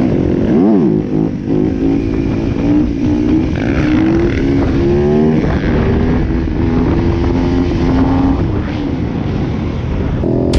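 Dirt bike engine running on the move, its pitch rising and falling with the throttle, with wind rushing over the microphone.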